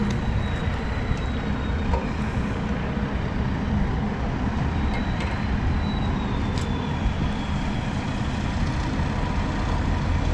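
Steady engine and road noise heard from inside the cab of a 2020 Mercedes lorry cruising along the road: an even low rumble with no change in pace.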